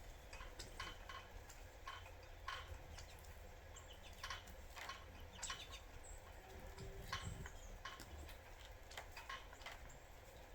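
Irregular sharp taps and clicks of small birds pecking and cracking sunflower seeds at a feeder, over a low steady rumble.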